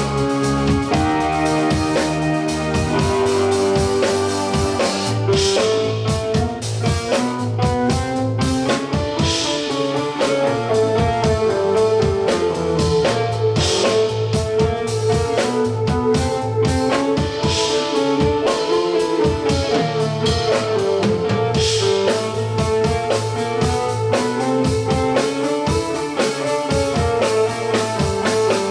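Live band playing an instrumental piece: guitar and drum kit over a long held note, with cymbal crashes about every four seconds.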